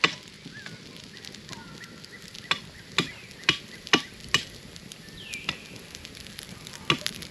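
Irregular sharp clicks and knocks, about one every half second, over a faint steady hiss, with a few faint short chirping calls.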